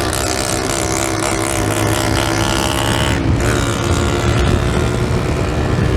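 A 125 cc motorcycle engine with an aftermarket exhaust running steadily under way, with wind on the microphone. Its note breaks briefly about three seconds in, then carries on.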